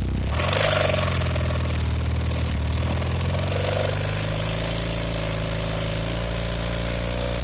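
1982 Honda CM450c parallel-twin engine blipped up from idle about a third of a second in, with a loud hissy burst on the rise, then held steady at a higher speed. The engine is running in the rpm range where it backfires through the carburetor, which the owner suspects comes from the points or spark advance being set too far forward.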